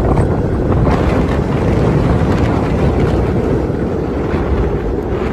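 Strong blizzard wind blowing hard against the microphone, a loud, steady low rumble with no let-up.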